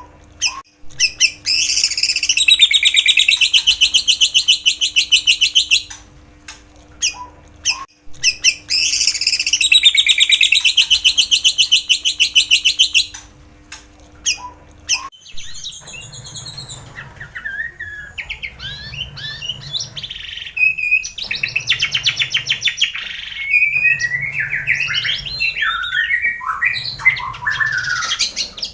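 Songbird song used as a lure for white-rumped shamas. It opens with two long, fast, high trills of several seconds each. About halfway it turns to varied whistled phrases that glide up and down.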